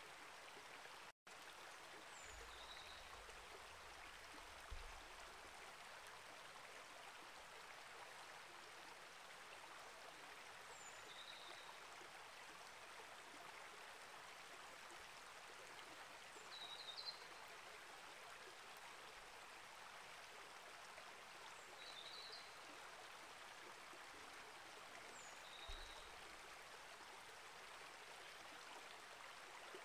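Small rainforest creek flowing, a soft steady rush of water, with a few faint short high bird chirps scattered through it.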